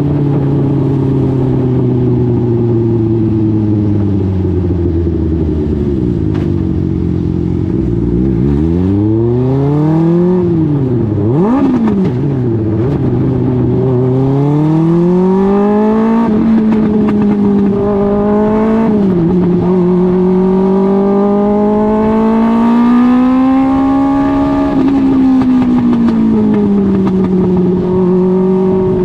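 Suzuki GSX-R 1000 inline-four motorcycle engine in a dwarf race car, running under racing load. The revs fall for the first several seconds, swing sharply down and back up about ten seconds in, then climb and hold fairly steady with gentle rises and falls.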